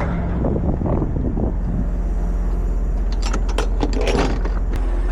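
Semi truck's diesel engine idling steadily, with a few metallic jangling clicks about three to four and a half seconds in.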